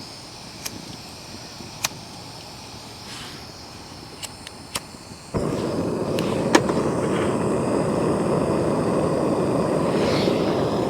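Campfire crackling with scattered sharp pops, then about five seconds in a louder steady rushing noise sets in suddenly.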